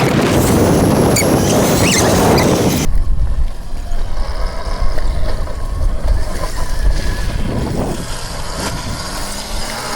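Wind buffeting the microphone while riding an electric dirt bike at speed, with road and tyre noise. About three seconds in, the sound changes abruptly to a heavy low rumble.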